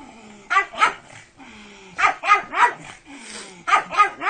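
A pug barking sharply in quick bursts of two or three, about eight barks in all.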